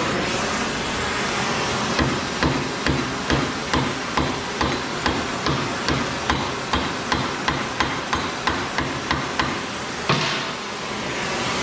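Hammer striking a steel snowblower skid in a regular run of blows, about two or three a second, over a steady rushing noise. The noise swells again near the end and then cuts off.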